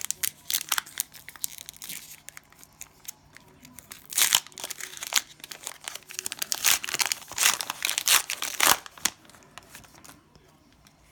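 Cellophane wrapper of a trading-card cello pack crinkling and tearing as it is opened, in a string of sharp crackles that are loudest about four seconds in and again in the second half.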